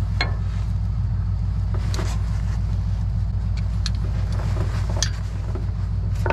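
Ford F-250 pickup idling steadily, with a few sharp metallic clicks of tools over it.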